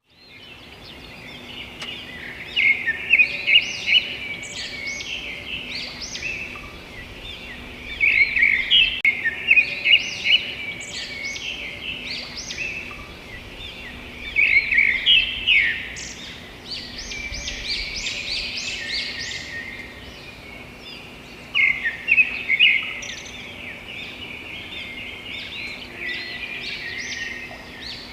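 Several birds chirping and trilling in repeated busy bursts of quick high calls, over a steady background hiss.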